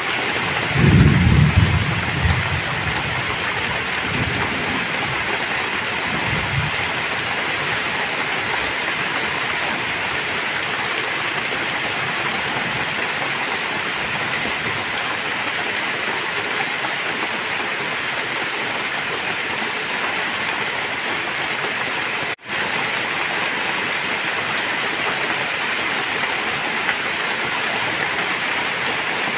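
Heavy rain falling steadily in a constant hiss. A low rumble of thunder comes about a second in, and fainter rumbles follow a few seconds later. The sound cuts out for an instant about two-thirds of the way through.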